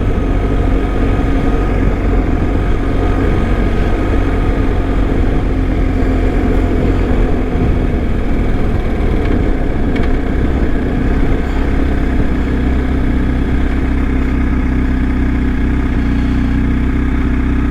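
BMW GS Adventure motorcycle engine running at steady revs while riding, with a steady rumble of wind and road noise.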